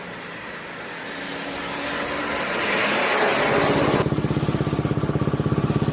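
A rush of noise swells over the first few seconds. At about four seconds it gives way to a motorcycle engine idling through an opened-up racing exhaust, with a rapid, even putter.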